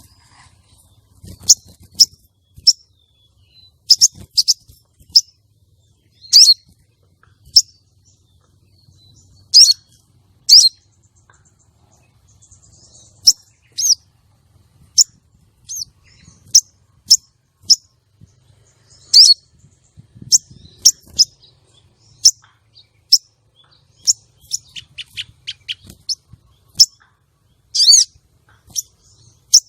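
Female sogon (crested jay) calling: short, sharp, high notes that drop quickly in pitch, repeated at irregular gaps of about half a second to two seconds, with a few quicker runs of softer notes. This is the female's call used to draw in and excite male sogon.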